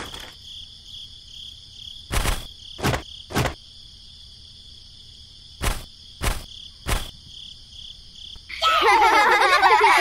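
Crickets chirring steadily, with six dull thuds in two quick groups of three as plums drop onto sand. Near the end a loud, high, wavering voice-like chatter begins.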